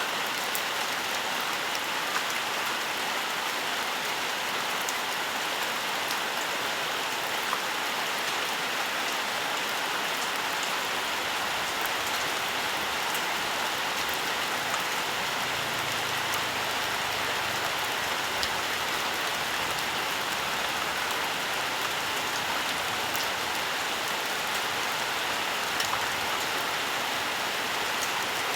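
Steady rainfall in a forest, an even hiss with many fine drops pattering on leaves and ground.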